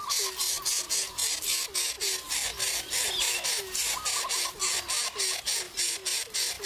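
Mother hen clucking rapidly and steadily, about four or five short low clucks a second, over a loud hiss that pulses on and off several times a second.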